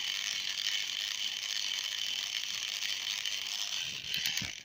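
Small electric motor and gears of a battery-powered toy train engine whirring steadily, with a few clicks just before it cuts off abruptly near the end.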